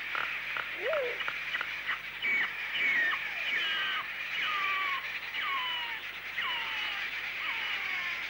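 A flock of birds calling together: a run of short clicks, then overlapping calls that slide down in pitch, about one a second.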